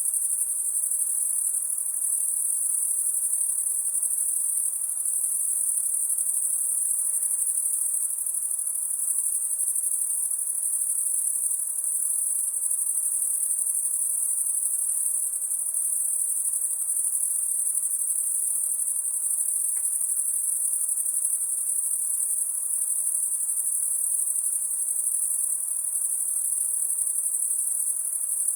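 Night-singing insects giving a continuous, high-pitched shrill that holds steady and unbroken, with no pauses or pulses.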